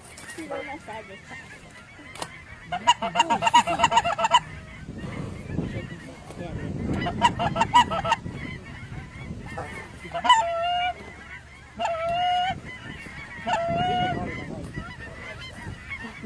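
Geese honking: two bursts of rapid honks, then three longer drawn-out honks spaced about a second and a half apart near the end.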